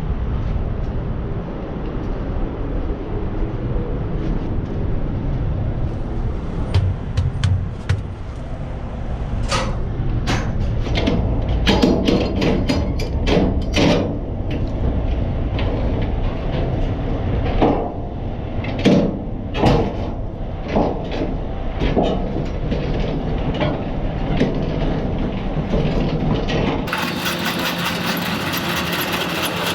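Semi truck idling with a steady low rumble, under a run of sharp metallic clanks and knocks in the middle of the stretch.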